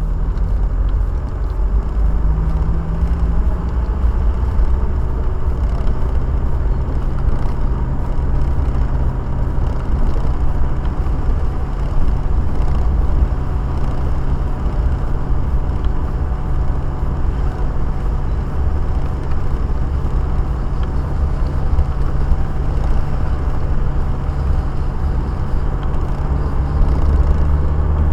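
Car driving, heard from inside the cabin: a steady low engine hum and road rumble.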